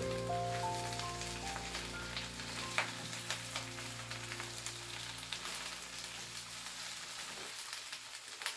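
Cabbage sizzling in a hot oiled wok as it is stirred and tossed with a silicone spatula, a steady hiss broken by light scrapes and taps against the pan. Soft background music fades out over the first few seconds.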